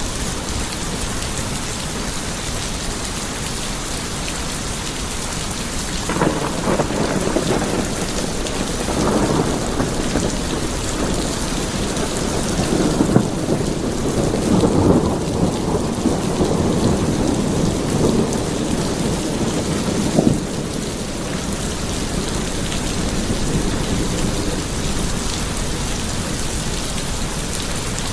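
Steady rain falling, with a long roll of thunder that builds from about six seconds in, swells in the middle and dies away with a sharp crack about twenty seconds in.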